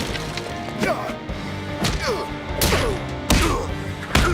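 Cartoon fight sound effects: punches and thuds landing about once a second over a dramatic music score.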